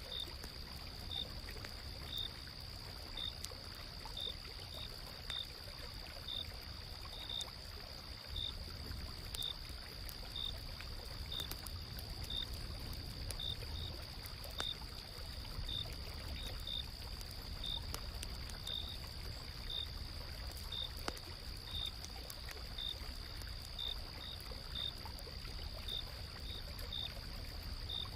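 Night insects calling over flowing water: one insect keeps up a steady high trill while another gives short high chirps about once a second. Under them is a low rush of a river, with faint scattered crackles of a campfire.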